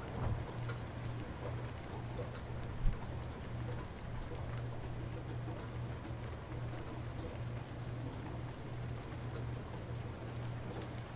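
Light rain falling steadily, with scattered faint drip ticks over a steady low hum. A single sharp low thump about three seconds in.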